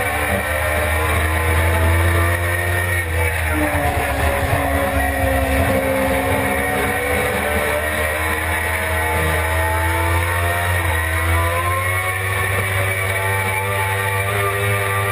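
Suzuki GSX-R600 inline-four sport bike engine running hard on a race track, heard from on board. Its pitch falls about three seconds in and again near eleven seconds, climbing again after each, over a steady low rush of wind.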